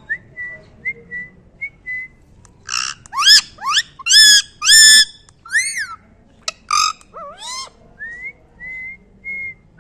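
Pet parrot whistling and calling: a few soft short whistles, then a run of loud, harsh rising calls about three seconds in, an arching chirp and more calls, and soft whistles again near the end.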